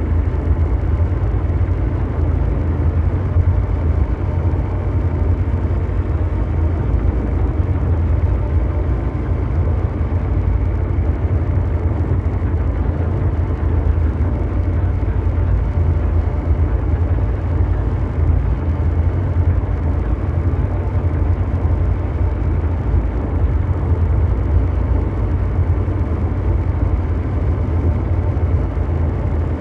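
Ambient mechanical drone of brown noise: a steady, unbroken rumble weighted deep in the bass, with a hiss-like haze above it and little in the highs.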